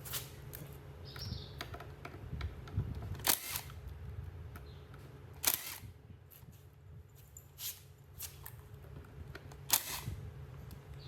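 Sharp metal clicks and knocks of hand tools and machine parts being handled, four louder ones spread out among smaller taps, over a low steady hum.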